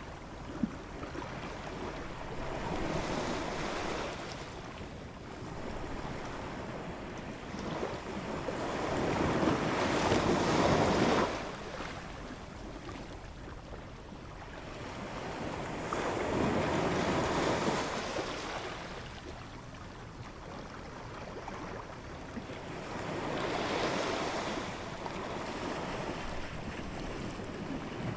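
Ocean waves coming in one after another, each swelling and fading about every six to seven seconds. The loudest wave peaks around ten seconds in and drops off suddenly.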